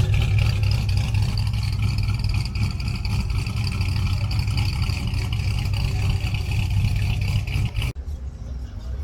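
A car engine running with a steady low rumble, under a steady high whine; both cut off abruptly about eight seconds in.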